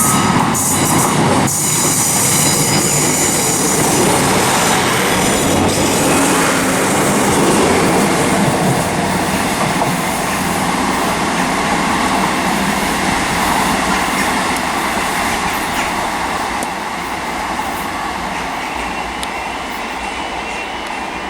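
Class 150 Sprinter diesel multiple unit running through the station: steady wheel-on-rail noise with a high wheel squeal and sharp clicks over the rail joints in the first couple of seconds. The sound slowly fades towards the end.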